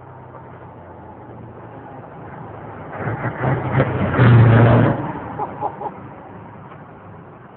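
Scania 144's 14-litre V8 diesel engine running, with a steady low hum that swells to a loud burst of power between about three and five seconds in, then drops back.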